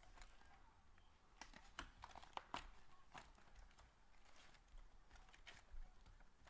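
Faint, scattered clicks and soft crinkling of trading-card packaging being handled and opened.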